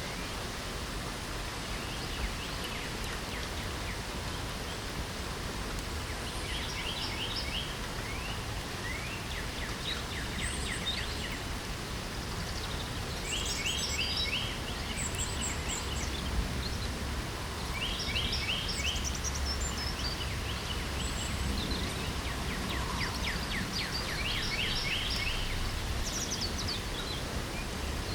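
Steady rain with birds singing over it: about five short song phrases, each a quick run of repeated notes, spaced a few seconds apart, with a few thin, high chirps between them.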